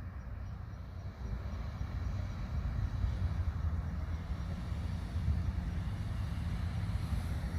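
Steady low rumble with a faint hiss above it, unchanging and without any distinct events.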